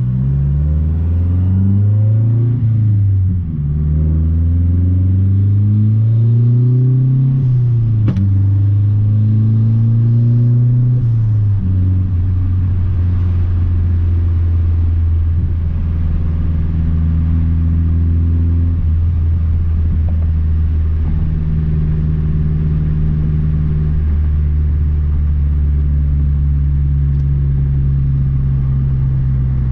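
Big-turbo 2012 Mazdaspeed 3's turbocharged 2.3-litre four-cylinder accelerating hard through the gears: the engine note climbs, drops at an upshift about 3 seconds in, climbs again, drops at a second upshift about 8 seconds in, and climbs once more. From about 12 seconds on it settles into a steady cruise.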